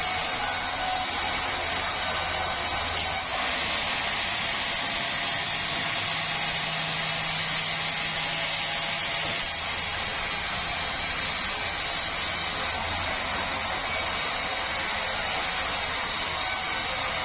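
Sawmill saw running steadily through a meranti log. Its sound brightens about three seconds in and changes again near ten seconds.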